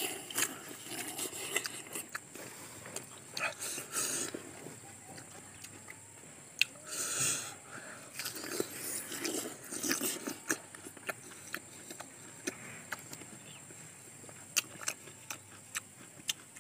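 Two people biting and chewing slices of star fruit: scattered sharp clicks and smacks, with a few short louder bites, around 4 seconds in and between about 7 and 10 seconds in.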